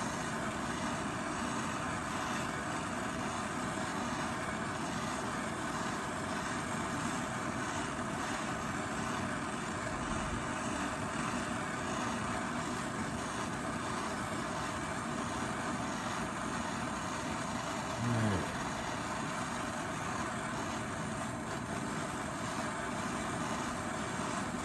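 Handheld gas torch flame hissing steadily as it heats a rusted-on strut nut to break it loose.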